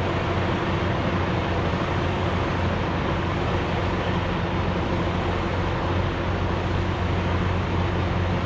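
Semi-truck engine running at a steady drone with constant road noise, as heard while driving.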